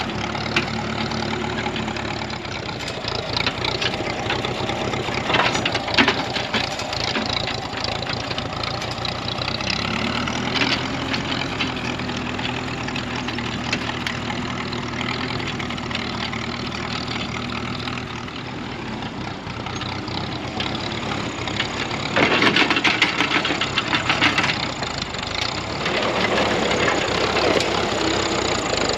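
Ferguson TEA20 tractor's four-cylinder petrol engine running steadily while it works the back blade, with louder, rougher noise for a few seconds near the end.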